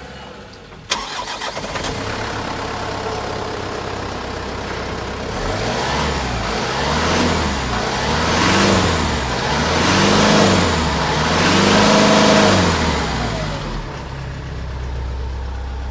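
Mitsubishi Fuso Canter's 4M50 4.9-litre turbo-intercooled four-cylinder diesel starts up about a second in and idles. It is then revved up and down several times, each rev rising and falling in pitch, and settles back to idle near the end.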